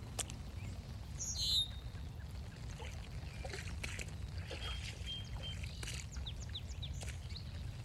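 Wild birds calling: a short, loud, harsh high call about a second in, a thin steady whistled note midway, then a quick run of falling chirps, over a steady low rumble with scattered footstep-like ticks.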